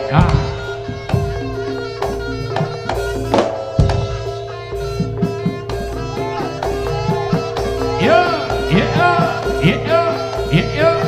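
Live jaranan ensemble music: regular drum strokes under steady held tones, with a bending melody line rising more strongly over the last few seconds.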